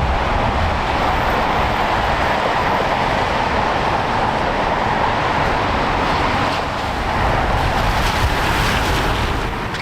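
Airbus A321 jet engines at takeoff power, heard from the ground as a steady rushing noise with a low rumble under it.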